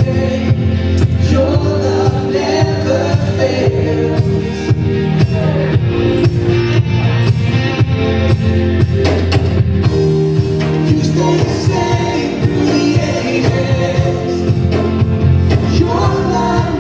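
Live church worship band playing a song with singing, over a steady drum beat.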